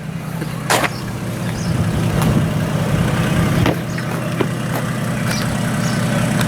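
Towing vehicle's engine and road noise, a steady low hum that grows louder over the first two seconds, with a sharp knock a little under a second in and several lighter clicks after it.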